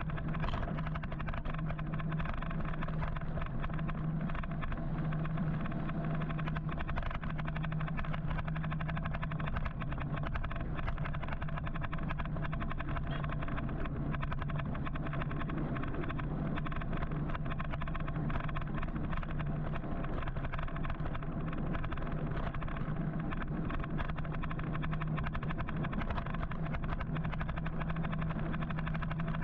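Steady road and wind noise of an electric motorcycle riding through city traffic, with a constant low hum.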